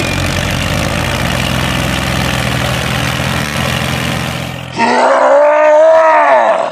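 A steady engine-like rumble that stops about five seconds in. A loud, drawn-out pitched cry follows, rising and then falling over about two seconds, and cuts off near the end.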